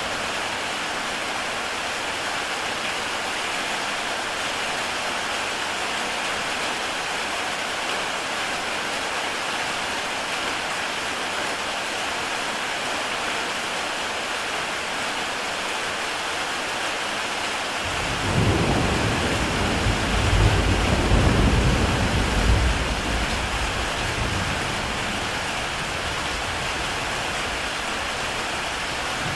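Heavy rain falling steadily on a tile roof. About two-thirds of the way in, a roll of thunder comes in suddenly, rumbles for several seconds and fades away.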